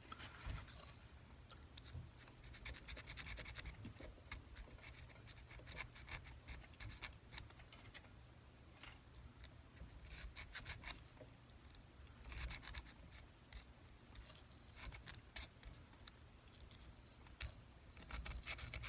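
Faint, irregular scraping strokes of a small hand file on the inside of a 14k gold bezel-wire seam, cleaning up the joint before it is soldered.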